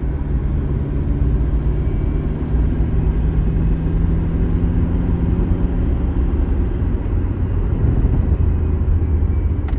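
A moving car's engine and road noise, a steady low rumble, with a low steady hum that fades out a little over halfway through.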